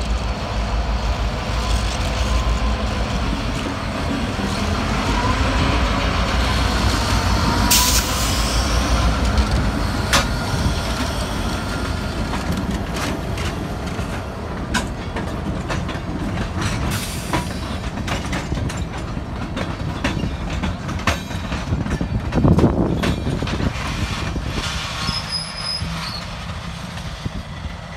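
A slow freight train of tank cars rolling over a level crossing behind EMD GP38-2 diesel locomotives. The engines' low rumble is strongest in the first several seconds, with a wavering squeal from the wheels. Steady clicking and clunking of wheels over the rail joints and crossing follows, with a louder clatter a little after twenty seconds in.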